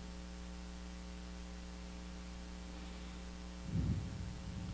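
Steady electrical mains hum from the sound system. A brief low rumble comes near the end.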